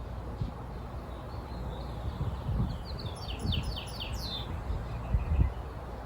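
A songbird sings one short phrase of about six quick, downward-sweeping notes, starting about three seconds in. Beneath it runs a steady low rumble with irregular thumps; the loudest thumps come near the end.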